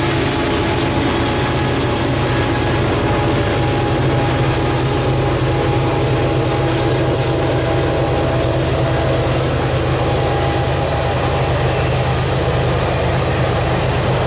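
Ringling Bros. and Barnum & Bailey circus train's passenger cars rolling past: a steady, unbroken noise of steel wheels on the rails with a low hum underneath.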